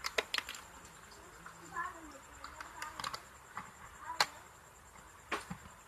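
Scattered sharp clicks and taps of small parts and tools handled during reassembly of an electric iron, the loudest a single knock about four seconds in.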